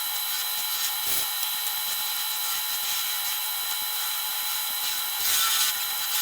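Homemade wood lathe running with a steady motor whine while a turning tool cuts the spinning wood with a hissing scrape, which gets louder about five seconds in.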